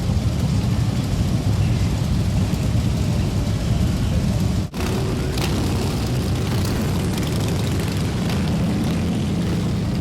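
Motorcycle engines running together in a continuous low rumble, broken by an abrupt cut about four and a half seconds in, after which the engine rumble resumes.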